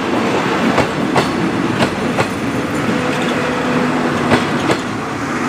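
Heritage passenger train passing close by: its wheels clack over rail joints, mostly in pairs, over a steady rolling rumble. From about halfway through, a steady hum comes in as the louvred rear vehicle goes past.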